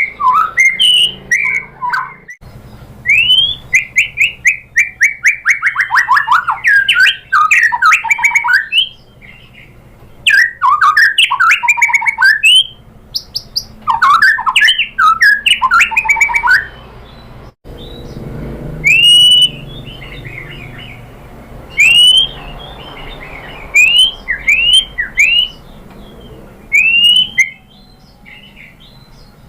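White-rumped shama singing: fast rattling trills and varied warbled phrases through the first half, then single rising whistled notes every couple of seconds.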